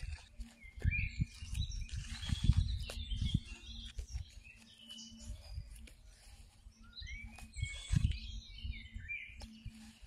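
Small songbirds chirping and twittering in quick, short high calls, on and off throughout. Beneath them run irregular low bumps and rumble, loudest about a second in, around two and a half seconds in and near eight seconds in.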